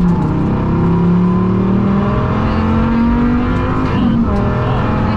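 Rally car engine under full throttle inside the cabin, climbing steadily in pitch through a gear, with a quick break about four seconds in, as in a dog-box gear change. The engine has a bad misfire and is down on power.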